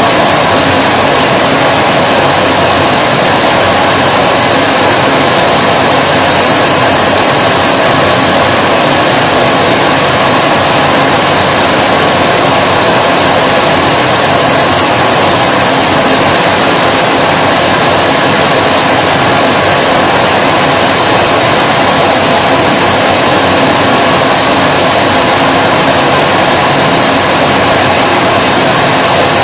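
Vacuum cleaner running continuously: a steady rush of air with a constant motor whine, unchanging in pitch and loudness.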